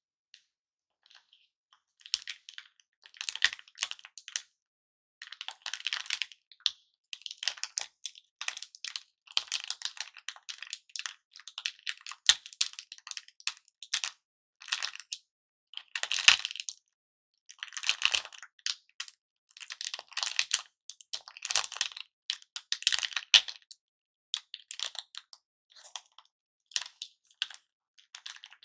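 Crackly cellophane lollipop wrappers being crinkled by hand in repeated bursts of about a second each, with a few sharp clicks among them.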